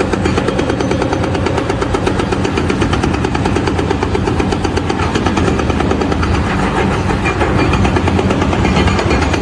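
An engine running steadily, with a rapid, even pulsing.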